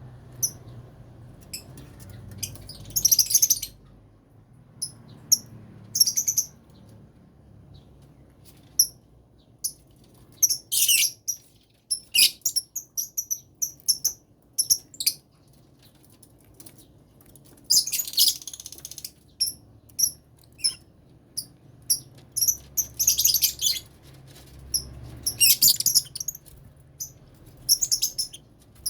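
Lovebirds in a colony cage chirping and screeching in short, high-pitched calls, scattered and in clusters.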